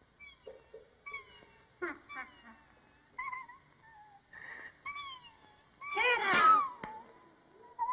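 Cartoon soundtrack of short, high, downward-sliding whistled chirps, roughly one a second. About six seconds in comes a louder, wavering, meow-like cry.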